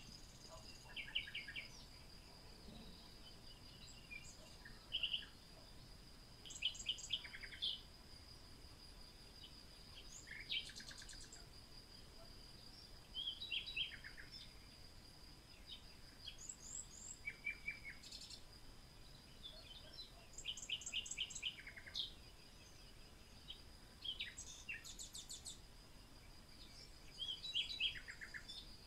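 Birdsong: short chirps and quick trills from several small birds, coming every second or two over a steady high-pitched hum.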